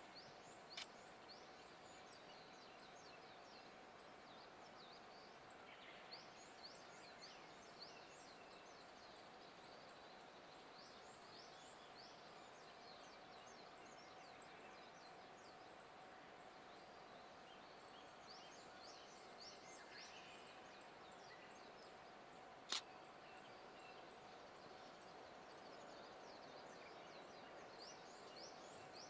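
Quiet outdoor ambience: small birds chirping in short, quick calls on and off, over a faint steady hum. A single sharp click about three quarters of the way in is the loudest thing.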